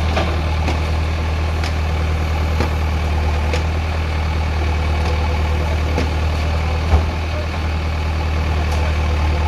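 JCB backhoe loader's diesel engine running steadily, with faint knocks about once a second and a single louder thump about seven seconds in.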